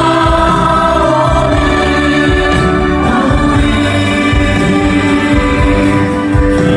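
Group of voices singing the closing line of a song over instrumental backing, drawing out long held notes.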